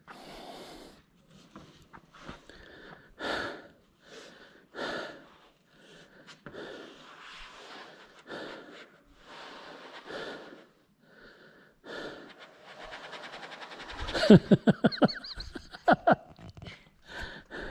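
A person breathing hard after scrambling down steep rock, short puffs about every second and a half, with a few grunting vocal sounds near the end.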